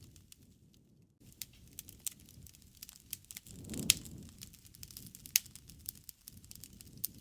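Wood fire crackling: scattered sharp pops and snaps over a low flutter of flame, beginning about a second in. Two louder pops stand out in the middle, about a second and a half apart, the first over a brief swell of flame noise.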